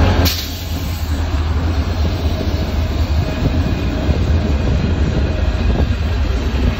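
Train running: a steady heavy low rumble with rail noise. A sharp click about a quarter-second in, after which the sound is a little quieter.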